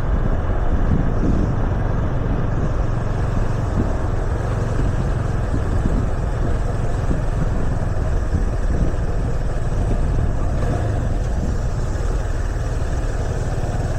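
Yamaha FZS25 motorcycle engine running steadily.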